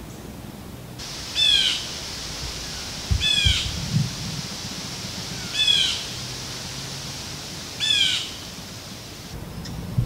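A bird gives four short calls, each sliding down in pitch, spaced about two seconds apart, over a steady hiss. A few low thumps come between the second and third calls.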